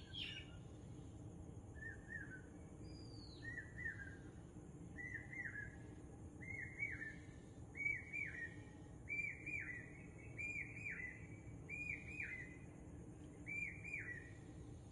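A bird chirping: a short chirp with falling pitch, repeated about nine times at a steady pace of roughly one every second and a half, over a steady low background hum.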